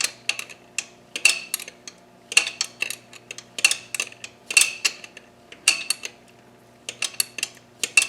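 Hand socket ratchet clicking in short runs about once a second, sharp metallic clicks as a fastener is worked.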